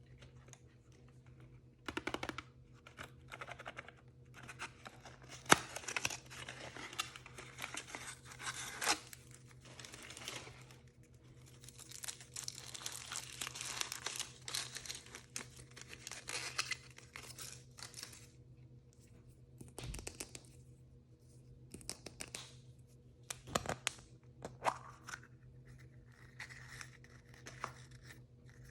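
Plastic or foil toy packaging being torn open and crinkled by hand, in two long stretches of rustling. Between and after them come scattered sharp clicks and taps of handling, over a faint steady hum.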